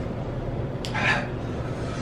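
A brief, sharp, pained vocal sound from a man burning from an extremely hot chip, about a second in, over a steady low hum.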